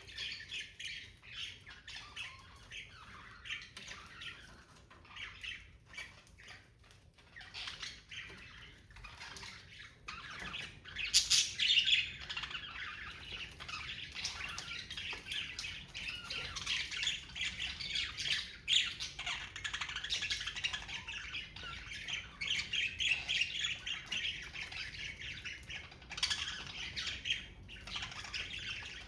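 Budgerigars chattering and squawking, a dense run of short rapid calls that grows busier and louder about a third of the way in.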